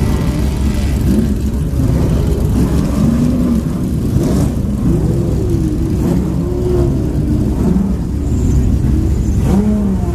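Historic racing car engine running at idle in the paddock and being revved repeatedly, its pitch rising and falling about half a dozen times over a steady low rumble.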